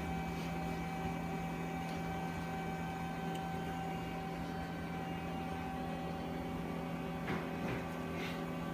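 Steady machine hum with a few fixed tones, and a few faint clicks of handling near the end.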